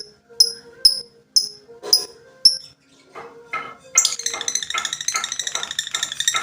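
Lovebird calls: sharp high chirps about twice a second, then about four seconds in a long, fast chattering trill (the 'ngekek') used to prompt silent lovebirds into song.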